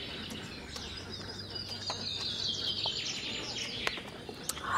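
A bird calling: a rapid run of high chirping notes that steps down in pitch over a couple of seconds, with a few faint clicks alongside.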